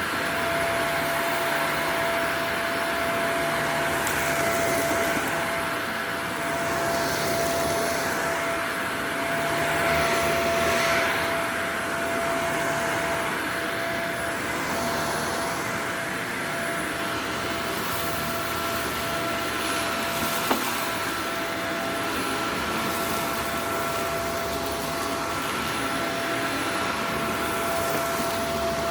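Upright vacuum cleaner running on a dirty carpet rug: a steady motor whine over airflow noise that swells and eases as it is pushed back and forth. A single sharp click about two-thirds of the way through.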